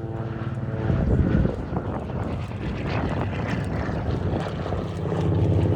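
Lockheed 12A Electra's twin Pratt & Whitney radial engines running steadily as the aircraft flies past, swelling louder about a second in.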